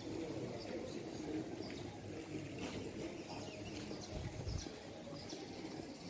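Birds cooing and chirping: a steady low cooing with short, high chirps scattered through it.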